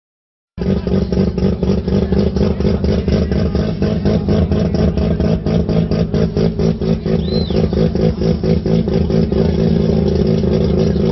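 Modified turbocharged Tofaş Şahin engine idling with a rough, lumpy pulse of about four to five beats a second, settling to a smoother idle near the end.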